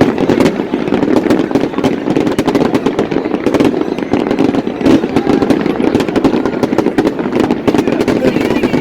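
A fireworks display: a dense, continuous barrage of rapid bangs and crackling with no let-up.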